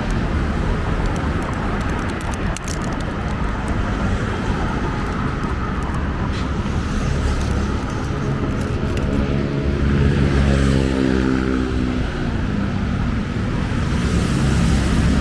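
Road traffic rumbling steadily. One vehicle's engine passes close between about 8 and 12 seconds in, its pitch dropping slightly as it goes by.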